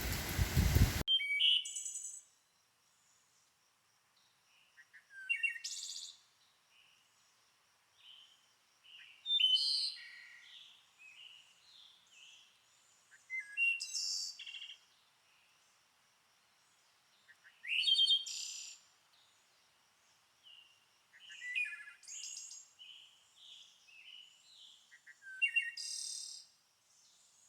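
A songbird singing short, twittering phrases, one roughly every four seconds, over an otherwise quiet background. A steady rush of noise cuts off about a second in.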